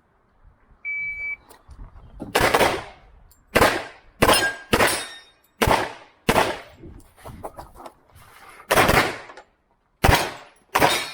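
Electronic shot-timer start beep, a short steady tone, followed about a second later by a string of pistol shots from an HPS/STI 2011 in .40 S&W. There are about nine shots at uneven spacing, some in quick pairs, with a longer pause before the last few.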